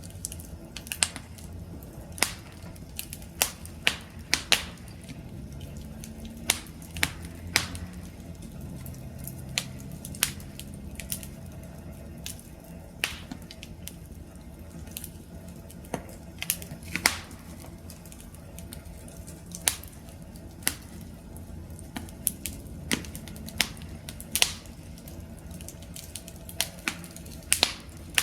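Wood campfire crackling: sharp, irregular pops, about one or two a second, over the low, steady rumble of the burning fire.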